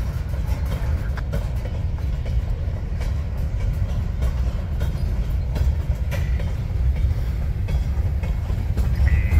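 Empty covered hopper cars of a potash freight train rolling past: a steady low rumble with scattered light clicks of wheels over the rails.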